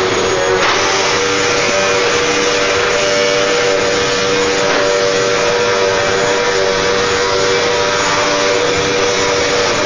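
Vacuum cleaner running steadily: an even rushing noise with a constant whine.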